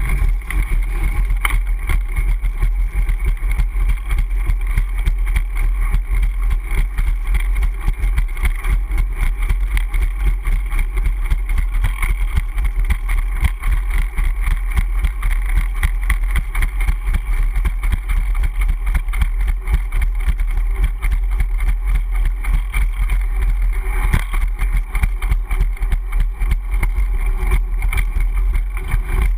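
Steady wind buffeting on the camera microphone with road rumble and rattle from a moving Brompton folding bicycle.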